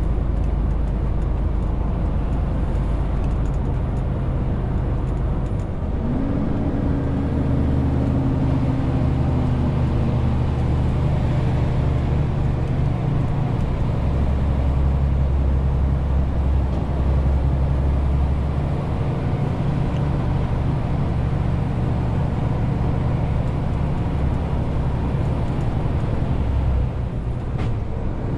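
Renault T520 truck's diesel engine running steadily under a 40-tonne load, with the engine note shifting about six seconds in and again near the end.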